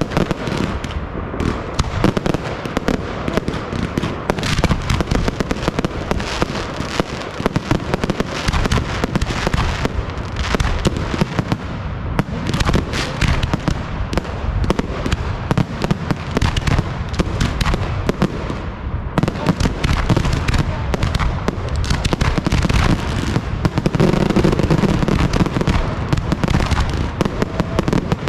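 Fireworks display firing a dense, continuous barrage of bangs and crackles with no real pauses.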